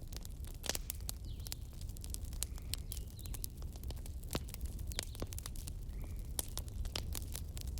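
Campfire burning: irregular sharp crackles and pops of burning wood over a steady low rumble of the flames. A few faint bird chirps are heard in the background.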